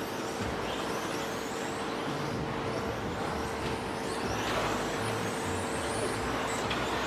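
Electric radio-controlled off-road cars racing, their brushless motors whining high and gliding up and down in pitch as they accelerate and slow, over a steady low hum.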